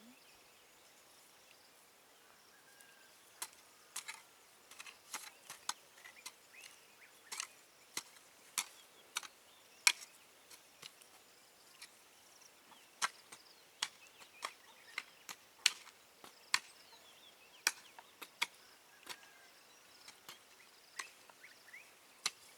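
A series of sharp, irregular clicks and snaps, roughly one or two a second, starting a few seconds in, over quiet outdoor background.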